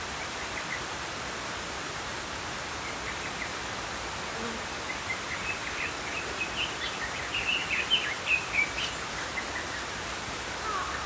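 Small songbirds chirping over the steady rush of a flowing stream. The chirps start a few seconds in and grow busiest around the middle, then thin out near the end.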